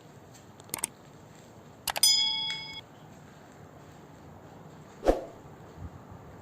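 A few sharp clicks, then a single metallic bell-like ding about two seconds in that rings for under a second; a dull knock near the end.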